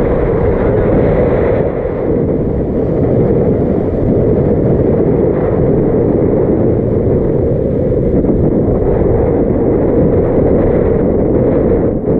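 Wind buffeting a GoPro's microphone on a moving e-bike: a loud, steady low rumble.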